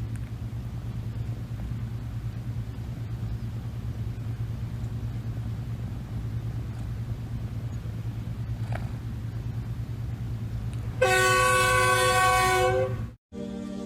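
A steady low rumble with a fast, even pulsing. About eleven seconds in, a loud horn sounds a chord of several notes for about two seconds and then cuts off.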